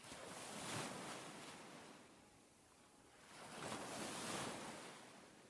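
Ocean waves washing onto a shore, two gentle swells that rise and fall, the first cresting about a second in and the next around four seconds in.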